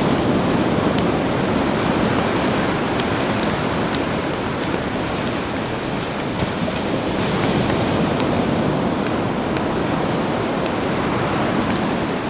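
Sea waves washing ashore in slow swells, mixed with a crackling campfire that gives scattered sharp pops.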